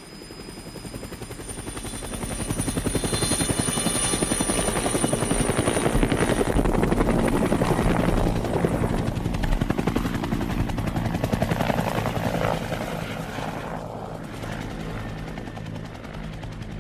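Helicopter rotor blades chopping rapidly, with a high whine in the first half. The sound builds up over the first few seconds, holds steady, then eases a little near the end.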